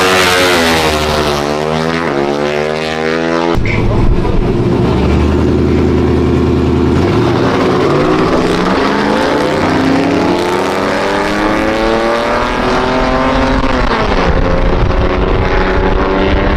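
Car engines at full throttle in drag racing, accelerating hard with the pitch climbing and dropping back at each gear change; more than one engine can be heard at once.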